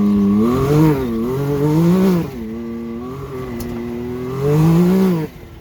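Can-Am Maverick X3 Turbo RR's turbocharged three-cylinder engine running under load, its pitch rising and falling with the throttle. It surges about a second in, again around two seconds, and again near the end, then drops off sharply as the throttle is let off.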